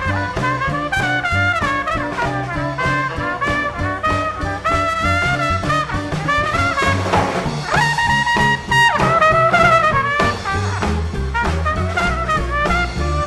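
Live swing band playing an instrumental passage: brass and saxophone lines over walking upright bass and drums, with the horns holding chords about eight seconds in.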